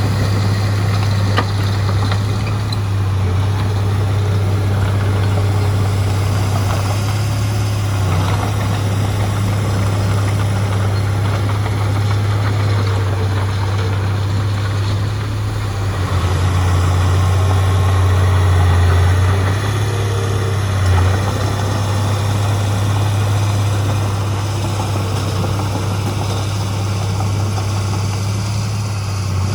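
Heavy diesel engine of earthmoving machinery running steadily with a deep hum, swelling louder for a few seconds a little past the middle before settling back.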